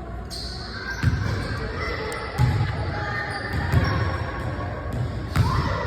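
A basketball bouncing on a hard court, a few separate heavy thumps spaced about a second and a half apart.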